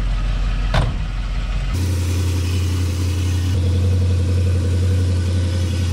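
1964 Chevrolet Impala's engine idling steadily, with a single click a little under a second in and an abrupt change in the engine note about two seconds in.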